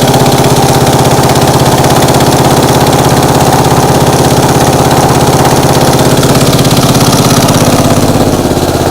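Small garden-tractor engine running steadily, with a slight change in its note and a small drop in loudness about eight seconds in.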